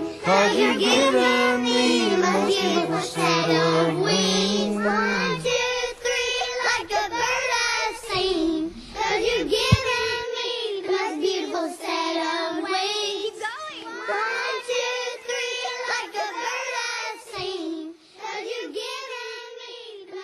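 A child singing without clear words, over backing music for the first five seconds or so, then the voice carries on alone, growing fainter near the end.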